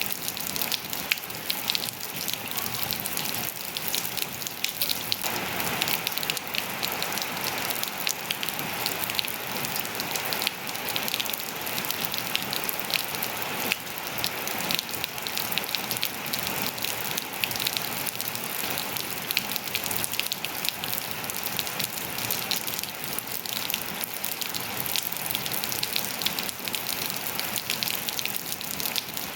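Steady rain falling on surfaces, a dense patter of many small drop ticks over an even hiss.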